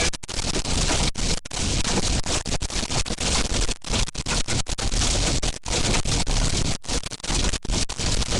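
Loud, even rushing noise inside a moving storm-chase vehicle, cut by many brief dropouts.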